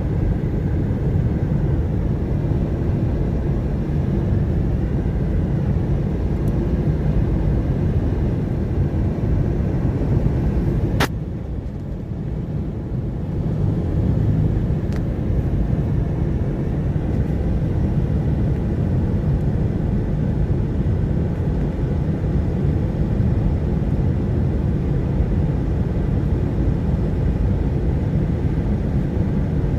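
Steady low road and engine rumble of a car in motion, heard from inside. A single sharp click about 11 seconds in, after which the rumble briefly drops and then returns.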